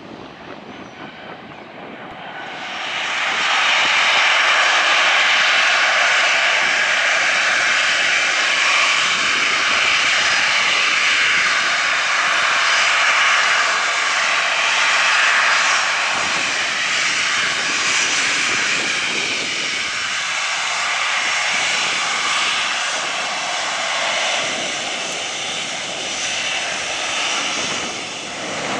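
Aircraft engines at high power, swelling sharply about two seconds in and then staying loud and steady.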